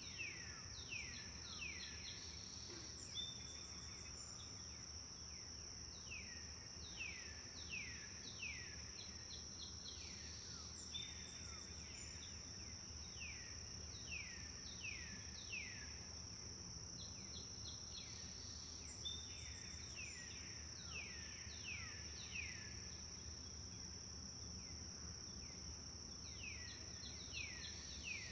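Forest birds chirping: runs of three or four quick downward-sweeping notes, repeated every couple of seconds, with a few short high twitters in between. Under them runs a steady high-pitched insect drone.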